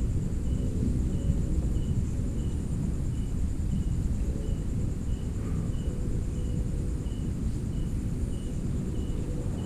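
Night insects: a steady high trill with a short, regular chirp repeating about every two-thirds of a second, over a continuous low rumble.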